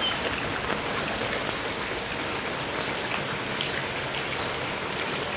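Water rushing steadily through the open paddles of a canal lock. Four short, high, downward chirps sound over it in the second half, and the sound cuts off suddenly at the end.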